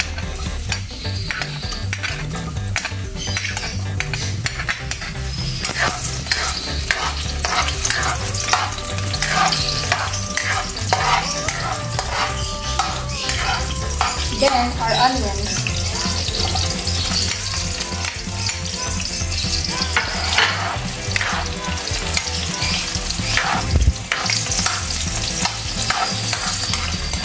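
Garlic and onion frying in hot oil in a wok, sizzling while a spatula stirs, scraping and clicking against the pan, with a low rumble underneath.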